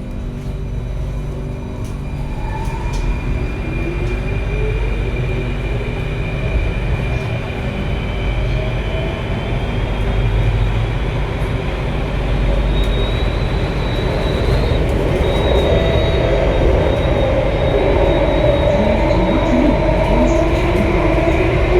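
Alstom Metropolis C830 metro train pulling away and gathering speed: the traction motors whine in rising tones over a steady rumble of wheels on rail, the whole sound growing louder throughout. A high steady tone joins about halfway through.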